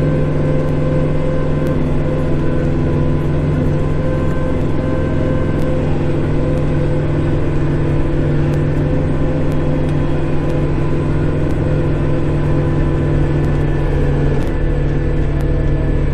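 Kubota Grand L5740 tractor's diesel engine running steadily at raised RPM to drive the snowblower, heard from inside the cab. The engine note dips slightly near the end.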